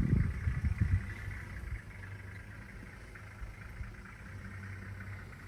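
A vehicle engine idling with a steady low hum, with some louder low rumbling in the first second.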